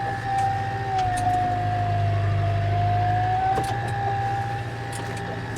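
Case tractor engine running steadily with a low drone, and a constant whine above it that wavers slightly in pitch.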